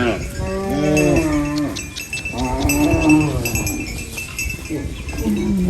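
Cows mooing, about three long calls one after another, the last sliding down in pitch near the end, with cowbells clinking behind.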